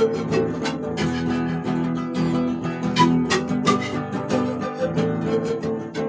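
Background music led by an acoustic guitar, plucked and strummed with a steady pulse.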